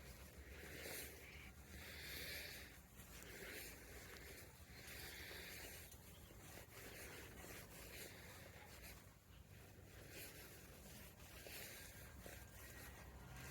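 Faint scraping of a 10 mm × 1.25 hand tap being worked into a mirror mount's threads, a stroke about every second and a half, chasing threads that the owner thinks are cross-threaded or damaged.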